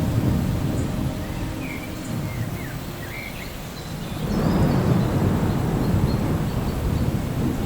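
Low rumbling thunder over a steady hiss of rain: one roll dies away, then another rumble swells about four seconds in.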